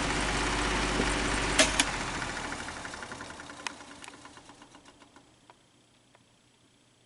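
Electric fan with badly worn bearings running with a loud rattling drone, then a click about a second and a half in and the blades coasting down, the rattle slowing into spaced ticks and fading out over about four seconds. The rattle is the sign of the worn bearings.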